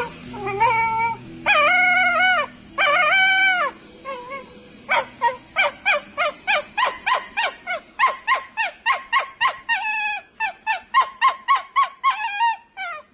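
An animal calling: three long calls, then a rapid run of short, repeated calls, about three or four a second, that keeps going to the end.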